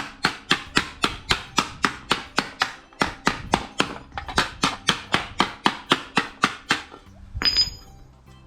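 Hammer blows on steel sheet being shaped into a patch panel, a steady run of about four strikes a second for roughly seven seconds. Near the end the hammering stops and one ringing metallic clink follows.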